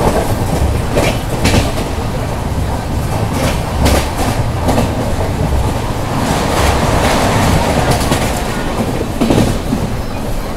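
Passenger train coach running at speed: a loud, steady rumble with the wheels clattering over rail joints in irregular clicks.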